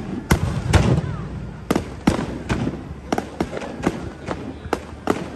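Fireworks bursting: a rapid, irregular series of sharp cracks and bangs, about a dozen in a few seconds, with a heavier low boom about a second in.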